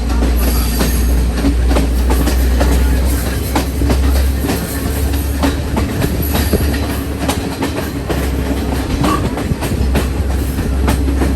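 Train running along the track: a steady low rumble with wheels clattering and clicking irregularly over the rails.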